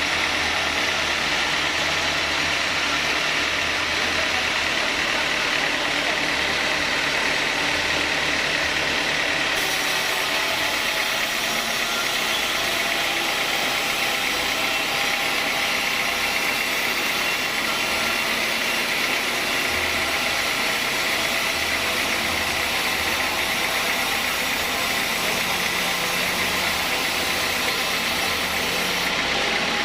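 Sawmill machinery running steadily: a constant mechanical drone with a strong high hiss and a low engine hum.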